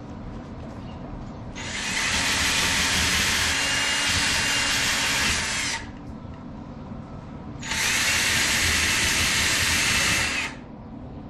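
Flux-core welding arc from a Forney FC125 welder running a bead on a steel lap joint, in two steady runs: about four seconds, a short pause, then about three seconds.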